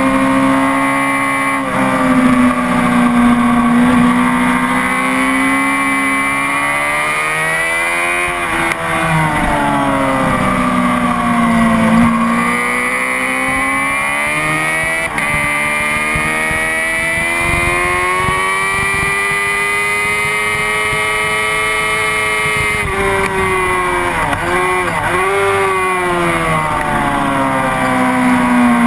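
Honda CBR600RR inline-four engine at full race pace on track. The pitch climbs and falls with throttle and gear changes and holds high along a fast stretch. Near the end comes a quick run of short dips and rises: downshifts under braking.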